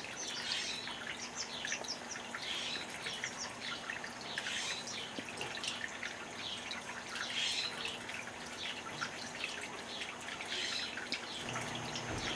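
Small birds chirping and twittering, many short, quick calls overlapping throughout.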